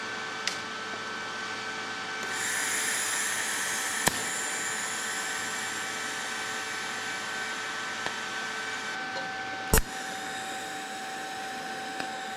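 TIG welder tack-welding stainless steel pipe: a steady hissing whine with a few fixed tones, brightening about two seconds in, with sharp clicks about four and ten seconds in.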